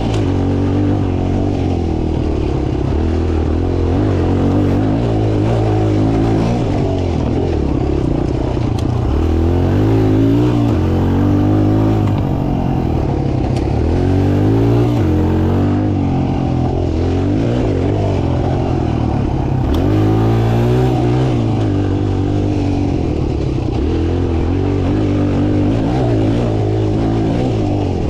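Mini dirt bike engine revving up and easing off over and over, its pitch rising and falling every few seconds as it is ridden around a track.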